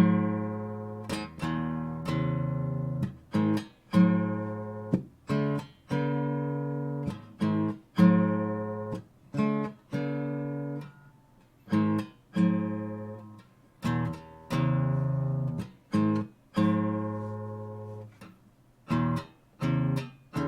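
Acoustic guitar played in strummed chords, a new chord struck every second or two. Each chord rings and fades, and several are cut off sharply by damping the strings before the next.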